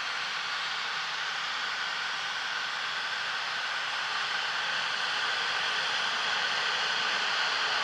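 Distant jet dragster's turbine engine running: a steady rushing hiss with a faint whine, growing slowly louder.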